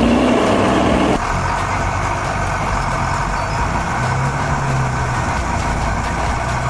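Heavy truck engine running steadily, with a sudden change in its sound about a second in.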